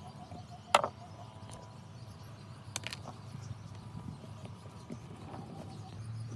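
Two sharp clicks or knocks, about two seconds apart, over a low steady hum.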